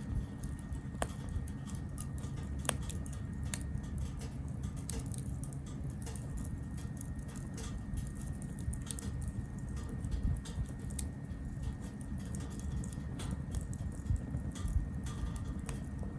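Wood fire crackling in a small B6-size cast-iron-style tabletop grill: a dense scatter of small pops and ticks over a low steady rumble, with a few sharper snaps, one about a second in and another near three seconds.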